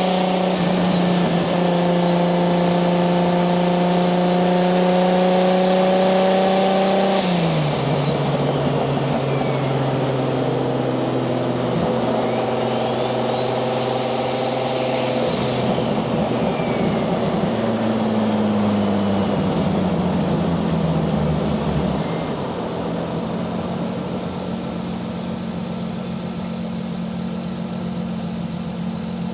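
Turbocharged 1JZ straight-six in a Nissan 240SX running at a steady cruise, with a high turbo whistle rising in pitch twice and falling away as the throttle comes off. The engine note drops in pitch about seven seconds in and then holds lower and steady.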